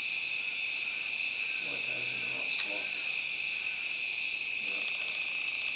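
Steady high-pitched insect chorus, with one sharp click about two and a half seconds in and a quick run of faint ticks near the end.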